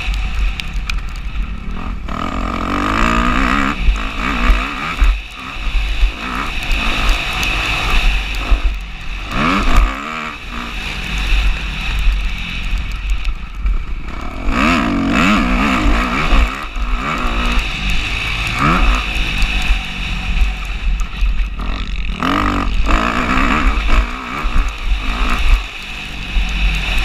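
Motocross bike engine revving hard and easing off again and again as it is ridden around the track. A heavy low rumble and occasional knocks run underneath.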